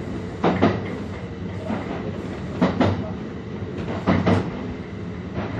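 Electric commuter train running, its wheels clacking over rail joints in quick pairs about every one and a half seconds over a steady rumble of running noise, as heard from inside the driver's cab.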